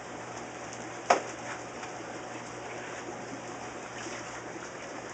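Steady trickling and bubbling of aquarium water, with one sharp knock about a second in.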